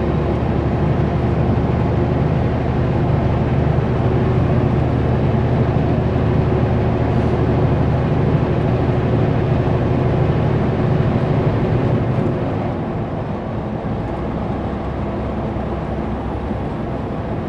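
Kenworth W900L semi truck running under a heavy load: a steady diesel engine drone with road and tyre noise. It eases off and gets somewhat quieter about twelve seconds in.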